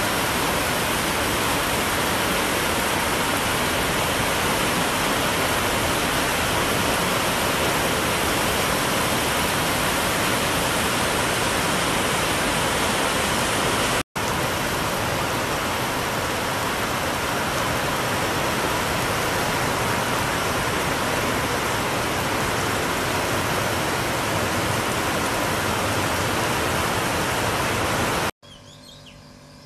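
Heavy rain pouring, a steady dense hiss that breaks off for an instant about halfway. It stops suddenly near the end, leaving a much quieter background with faint chirping.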